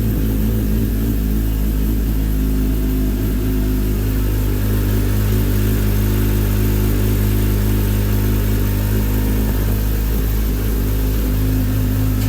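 Yamaha R1 inline-four sportbike engine idling steadily through an Akrapovic full-system exhaust.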